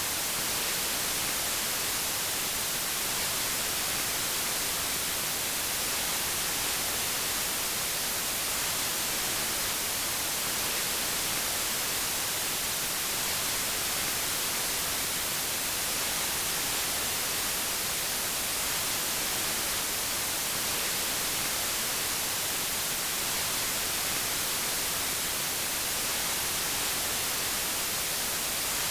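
Steady white noise: an even, unchanging hiss strongest in the high end.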